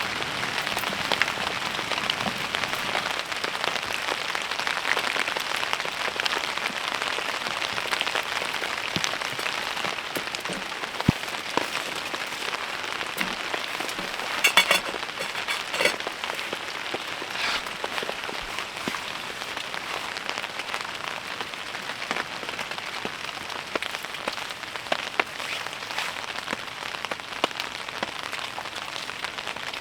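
Steady heavy rain falling, with many separate drops striking sharply and a brief run of louder clicks about halfway through.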